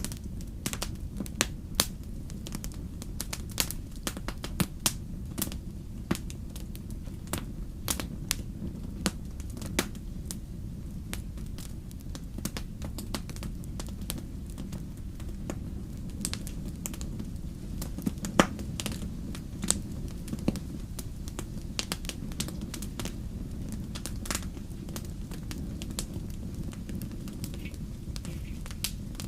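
Wood fire in a fireplace crackling, with irregular sharp pops and snaps, some louder than the rest, over a steady low rumble.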